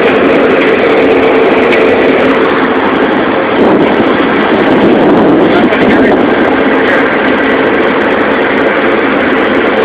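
Diesel locomotive engine running steadily and loudly, mixed with the rumble of a double-stack container freight train rolling past.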